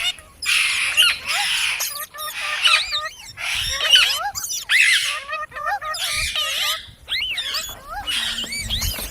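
Pet parrot calling in a rapid string of shrill chirps and harsh squawks, the pitch sweeping up and down, with short pauses between bursts.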